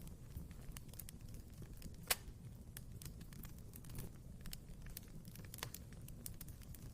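Fire crackling in a fireplace: a steady low rumble of flames with irregular small pops and snaps, and one sharper, louder pop about two seconds in.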